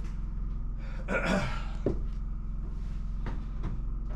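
A person's heavy breath out after lifting, then a few light knocks, over a steady low hum.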